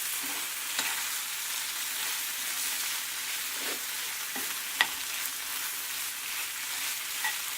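Chicken pieces sizzling as they fry in a pan of softened onions and tomatoes, being stirred, with a steady hiss and a few short clicks; the sharpest click comes about five seconds in.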